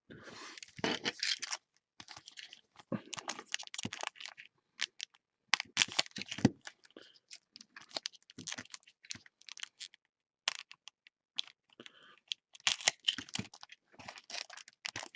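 Irregular scratching, tearing and clicking as a hobby box of trading card packs is cut open with a knife and the foil packs are torn and handled, in short uneven bursts.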